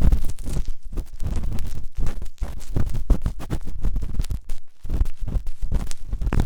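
Forceful ear picking close to a microphone ear, with rapid irregular scraping and rubbing strokes and deep muffled rumbles.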